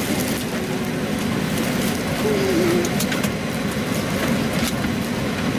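Steady low hum of background noise with faint murmured voices, a brief wavering tone a little past the middle, and a few light clicks.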